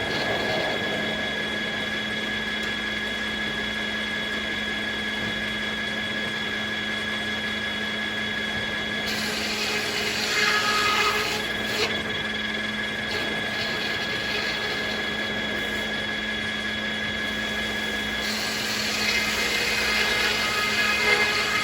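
Circular sawmill running with a steady hum and whine. It gets louder and rougher twice, about nine seconds in and again near the end.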